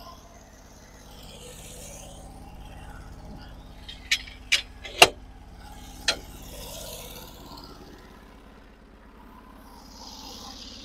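Norwood HD36 sawmill engine running steadily at low speed, with four sharp knocks in quick succession about four to six seconds in, the third the loudest.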